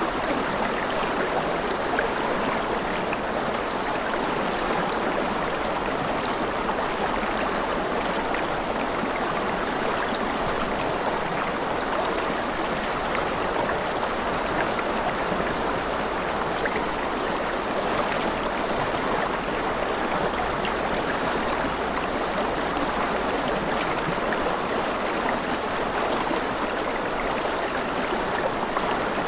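A rushing river flowing steadily, a constant even rush of water with small splashes and gurgles in it.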